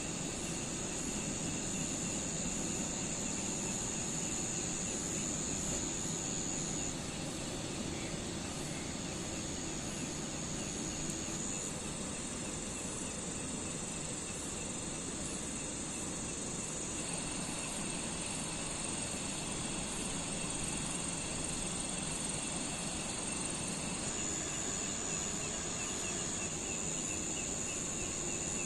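Insects trilling in steady high continuous tones that shift in pitch a few times, over a steady wash of noise.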